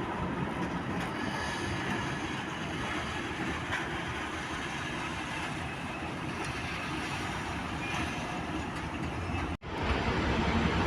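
Train running on the rails at the station, a steady rolling rumble. It breaks off abruptly about nine and a half seconds in, and a louder, deeper rumble follows.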